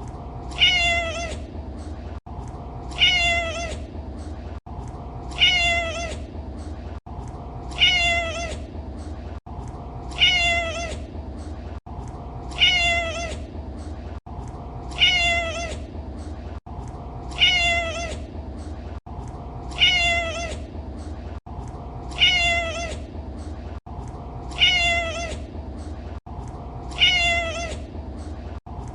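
A domestic cat meowing: the same short, high meow repeats every two and a half seconds, about twelve times, each a rising then falling call. A steady low hum runs underneath.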